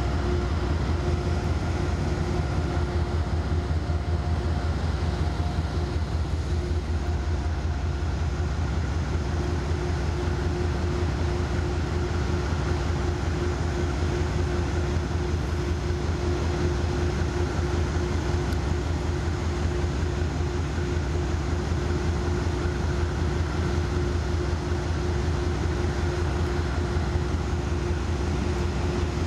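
EMD diesel freight locomotives, a GP38-2 and a GP40, running under power with a steady, evenly throbbing low drone and a steady hum above it, as they pull a freight train through.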